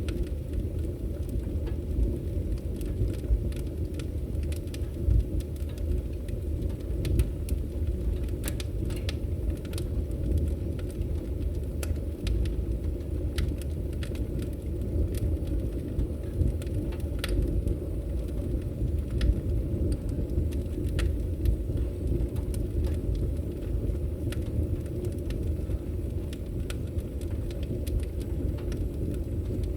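Wood fire burning in a fireplace and crackling, with scattered sharp pops over a steady low rumble of the flames.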